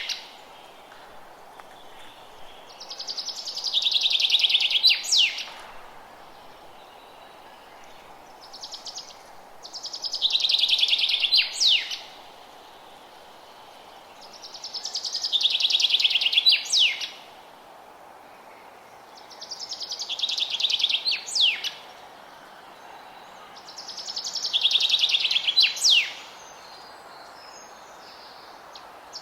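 A songbird singing the same song over and over, about every five to six seconds: each phrase is a fast, high trill that swells louder and ends with a couple of quick sharp notes. A faint steady forest hiss lies underneath.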